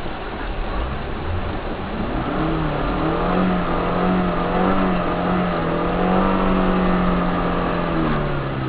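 Car engine revving up about two seconds in, held at high revs for around five seconds with a slightly wavering pitch, then dropping away near the end.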